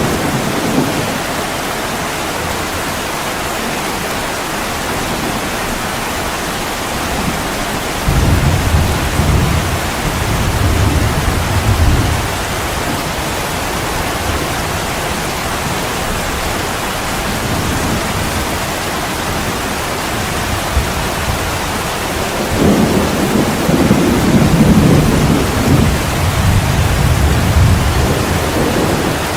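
Heavy rain falling steadily, with low thunder rumbling twice: once about eight seconds in for a few seconds, and again for a longer stretch in the last third.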